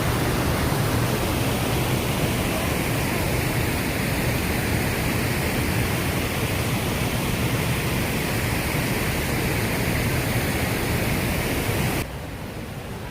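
Steady rushing roar of a wide river waterfall, the falls of the Snake River at Idaho Falls. The level drops suddenly about a second before the end.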